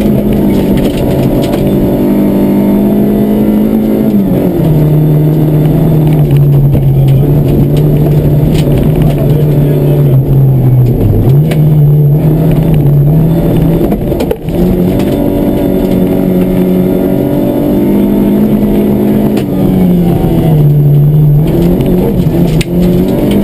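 Rally car engine heard from inside the cabin, running hard at high revs; its pitch falls and climbs several times as the car is driven.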